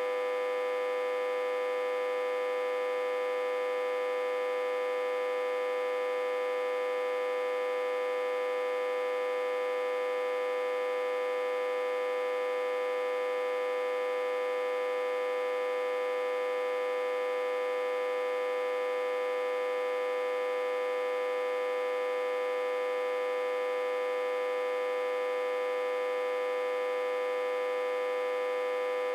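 Autotransformer humming steadily, reverse-connected to a step-down transformer with about 60–80 V on its input. It is an unchanging buzzy hum with many overtones and one strong mid-pitched tone on top.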